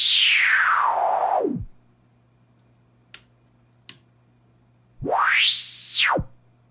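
Patching Panda Vibrazum Mk2 resonant Eurorack filter swept by hand. A hissing resonant band falls from very high to very low and fades out. After two faint clicks, it rises quickly back up and drops again.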